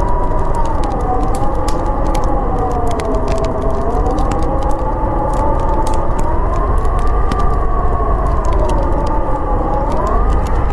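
Howling blizzard wind, a wavering moan that slowly rises and falls in pitch over a steady rush, with the quick crackle and pops of a wood fire throughout.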